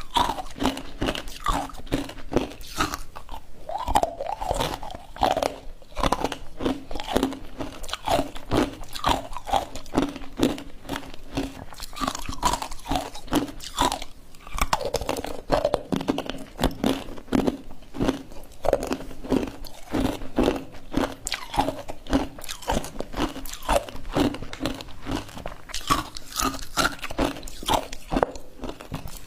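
Ice being bitten and chewed close to the microphone: continuous, irregular crunching and cracking of the ice between the teeth.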